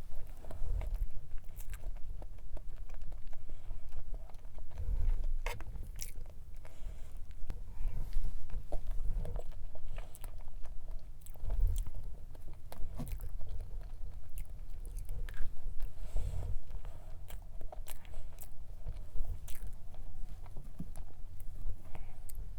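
Close-up sounds of a person eating strawberry cream cake: steady chewing and biting, with occasional light clicks.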